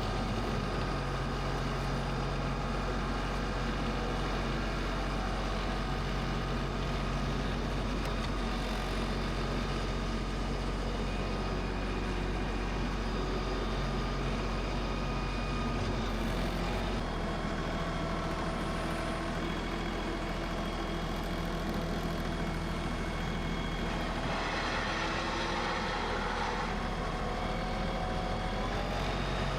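New Holland Workmaster 40 compact tractor's diesel engine running steadily under way, its note shifting slightly about halfway through. A rushing noise rises over it for a few seconds near the end.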